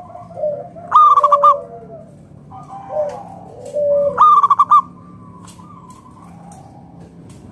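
Zebra dove (perkutut) singing: two song phrases about three seconds apart, each a few soft low coos leading into a loud, quick run of stuttering coos. The last couple of seconds are quiet.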